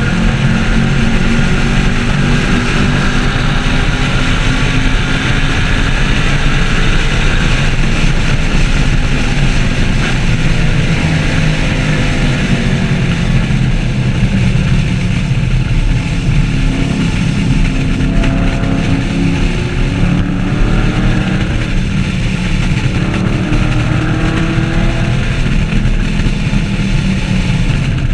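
2014 Chevrolet Camaro 1LE's 6.2-litre V8 running hard on a race track, its note rising under acceleration and falling back under braking and gear changes.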